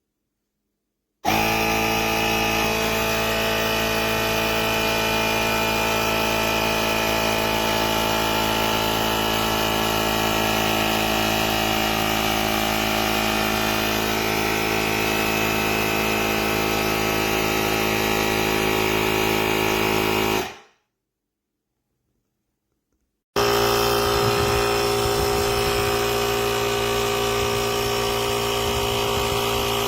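Small electric air compressor in a portable jump starter running steadily with a constant motor whine. It stops abruptly about twenty seconds in, then starts again about three seconds later.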